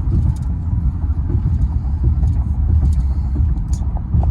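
Steady low rumble of engine and tyre noise inside the cabin of a 2015 Infiniti Q50 driving on the road.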